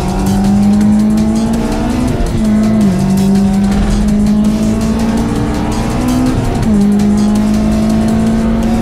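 Honda S2000's high-revving inline-four pulling hard on track, its pitch climbing steadily and dropping sharply at upshifts, about three seconds in and again near seven seconds.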